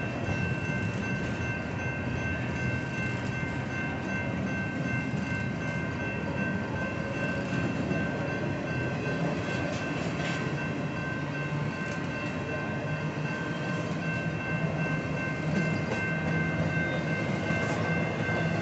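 Empty intermodal freight cars rolling past in a steady, continuous rumble, with a steady high-pitched tone over it.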